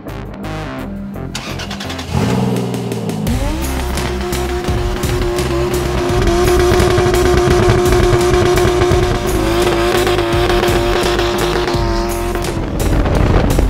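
Lexus IS300 drift car's engine revving up about two seconds in, then held at high, steady revs. Music plays underneath.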